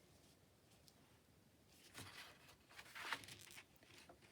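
Faint rustling of a paper journal page being handled, in two brief bouts about two and three seconds in, against near silence.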